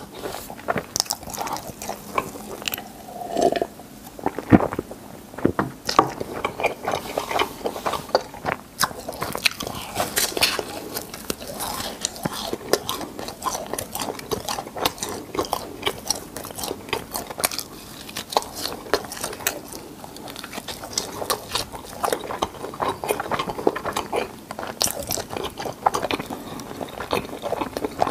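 Chewing and crunching crispy fried cheese balls close to a lapel microphone, a dense run of short, crisp crackles and clicks.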